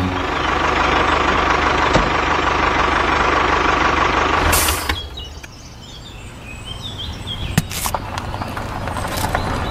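A machine running steadily, a loud hiss with a steady whine, that stops abruptly about five seconds in. After that come quieter faint chirps and a few sharp clicks.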